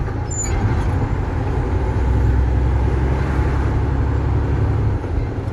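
Semi truck's diesel engine running under way after a double-clutched upshift, a steady low drone that grows fuller about two seconds in as the driver gets back on the power.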